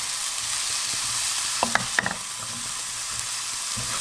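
Diced sweet potato and onion sizzling steadily as they sauté in a frying pan, stirred with a spatula. A few light clicks of the spatula against the pan come about halfway through.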